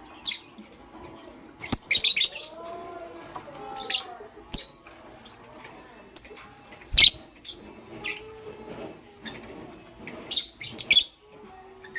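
Lovebirds chirping: short, sharp, high chirps at irregular intervals, with a quick cluster about two seconds in, another near the end, and the loudest single chirp about seven seconds in.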